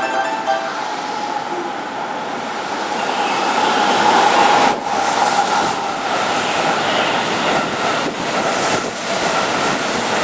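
Keihan 3000-series limited-express electric train running through, its rail and wheel noise growing louder to a peak about four seconds in. A steady whine sits over the noise, with light clacking from the wheels later on.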